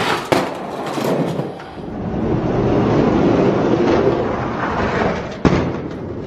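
Die-cast toy monster trucks rolling down a race track, their plastic wheels rumbling on the track. There is a sharp click just after the start and another sharp knock about five and a half seconds in.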